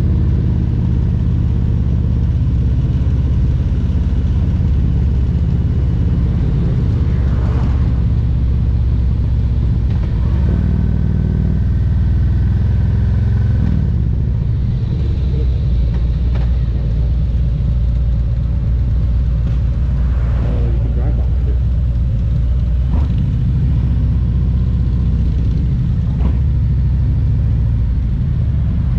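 A 2022 Harley-Davidson Road Glide Special's Milwaukee-Eight 114 V-twin engine running steadily on the road, a low rumble that drops in pitch about halfway through.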